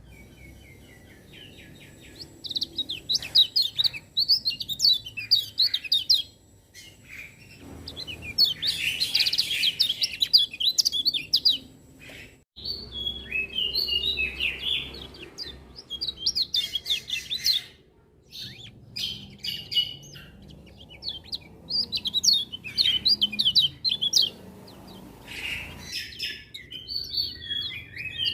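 Kecial kuning (a white-eye) singing in lively phrases of rapid high twittering chirps, each run lasting a few seconds with short pauses between.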